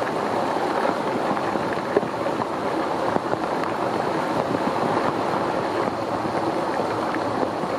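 Heavy typhoon rain pouring steadily onto stone steps and paving, an even rushing hiss with a few sharper drop ticks.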